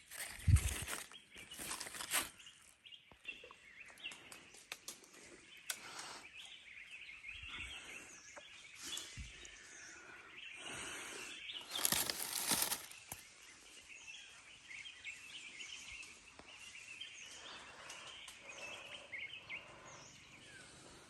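Small birds chirping and twittering in woodland, with loud rustling near the start and again about twelve seconds in.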